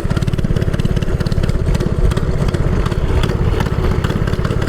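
Minibike's small single-cylinder engine running steadily under way, a rapid, even putter.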